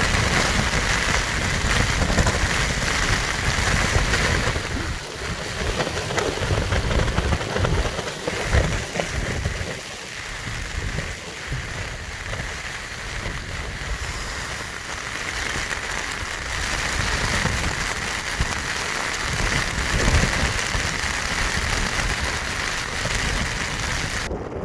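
Heavy storm rain falling as a dense, steady hiss, with strong gusting wind buffeting the microphone in uneven rumbles.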